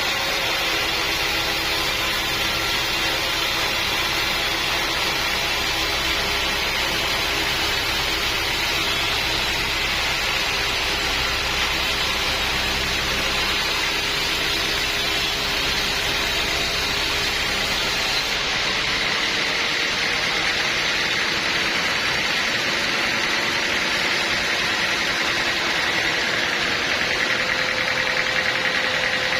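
Portable sawmill running steadily, a continuous machine drone with a hissing cutting noise over it. About two-thirds of the way through, the low rumble drops away and the pitch steps up slightly.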